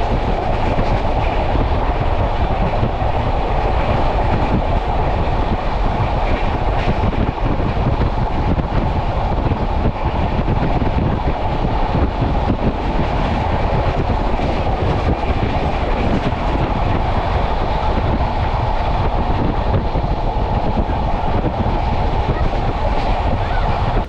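Steady running noise of a moving express passenger train, heard from on board: wheels rumbling on the track, loud and unbroken.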